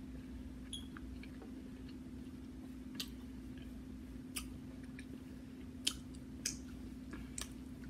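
A person chewing a mouthful of boiled seafood with the mouth closed, with about half a dozen soft, sharp mouth clicks scattered through it. A faint steady hum runs underneath.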